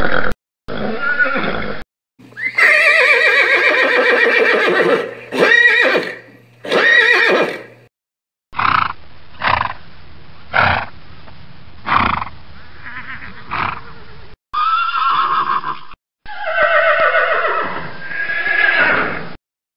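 Horses neighing: several long whinnies that fall in pitch, with a run of short calls about once a second between them. The pieces start and stop abruptly.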